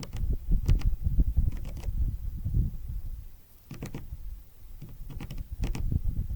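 Small birds pecking at seed on a feeder: irregular sharp taps and clicks in small clusters, over a low rumble.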